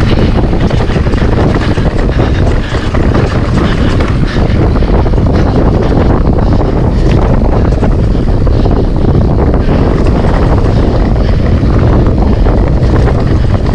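Wind buffeting the microphone over the rumble and rattle of a mountain bike riding down a trail, with many small knocks throughout.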